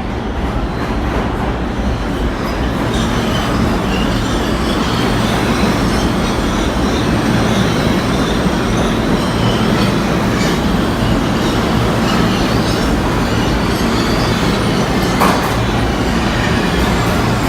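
New York City Subway train running along the track: a steady rumble of wheels on rail with faint wheel squeal and some clicking over rail joints, including one sharp click near the end.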